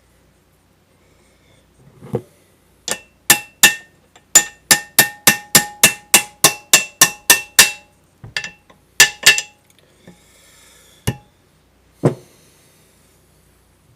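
Hammer striking metal with a ringing tone. A quick run of about fifteen blows comes at roughly three a second, then a handful of spaced strikes follow.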